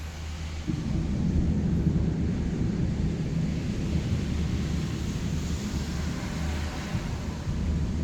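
Thunder rumbling low and long, swelling in under a second in and rolling on unevenly.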